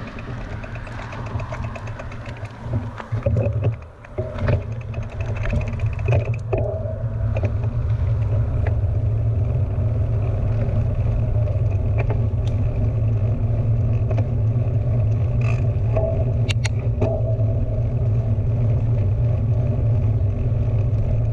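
Steady low rumble of riding noise on a mountain bike's action camera, wind and tyres on the trail, with a few clicks and knocks in the first several seconds.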